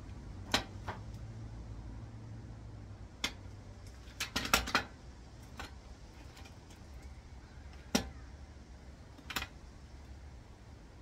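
Metal tools and transmission parts being handled, giving scattered sharp clinks and clicks with a quick cluster about four and a half seconds in, over a faint low steady hum.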